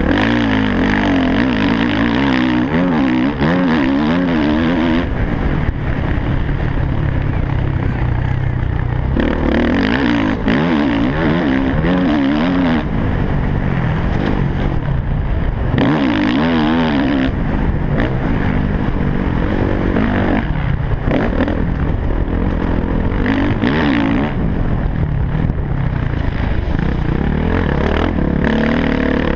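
Motocross bike engine at racing speed, its pitch rising and falling again and again as the rider opens and closes the throttle, heard from a helmet-mounted camera.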